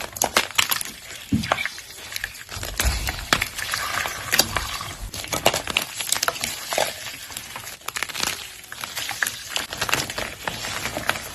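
Baking soda being crushed and crumbled, a dense, irregular run of crunches and crackles.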